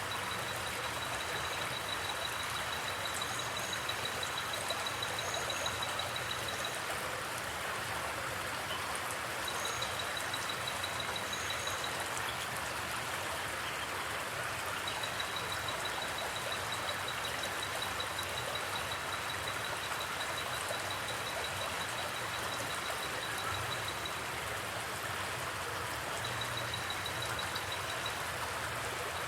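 Forest creek water flowing steadily, an even rushing sound with no change in level. Over it, a high, rapidly pulsing trill comes and goes in stretches of several seconds, and a few short, higher chirps sound in the first half.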